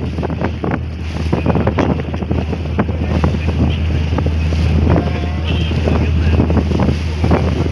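Passenger catamaran ferry under way: the engines drone steadily low while wind buffets the microphone in rough gusts, with rushing water in the background.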